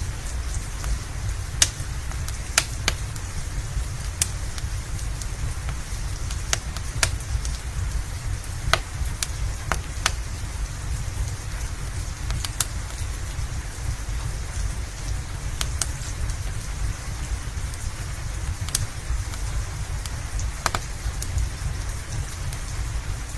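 Steady rain mixed with a crackling fireplace: a constant low rumble and hiss, broken by scattered sharp pops at irregular moments.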